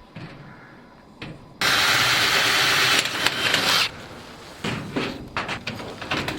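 A loud, even rushing noise that starts and stops abruptly, lasting about two seconds, followed by scattered light knocks and scrapes of a sheet-metal chimney cap being fitted onto the pipe.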